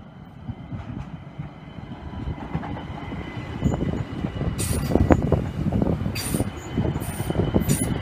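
ÖBB Talent electric multiple unit approaching and passing close by, its rumble growing louder as it draws level. Several short sharp noises from the wheels and rails come from about halfway through.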